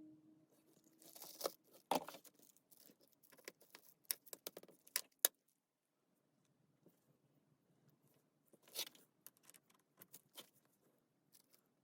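Irregular clicks and knocks of small metal parts and tools being handled on a work surface. There is a sharp knock about two seconds in, a quick run of clicks around the fourth and fifth seconds, and a brief rustle near the end.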